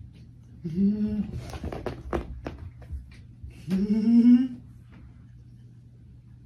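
Two short hummed vocal sounds, each under a second and slightly rising in pitch, about three seconds apart, with a few sharp taps between them.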